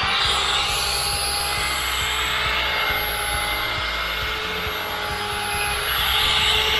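High-speed rotary buffer running at about 3500 rpm, its pad polishing a metal aircraft exhaust stack: a steady motor whine over a hiss, getting a little louder near the end.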